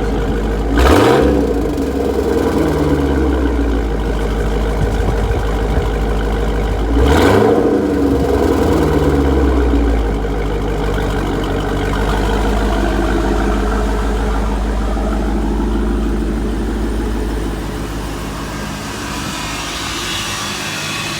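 2021 Dodge Durango SRT Hellcat's supercharged 6.2-litre V8 breathing through an aftermarket exhaust, idling with two quick revs: one about a second in and another about seven seconds in, each rising and dropping back to idle.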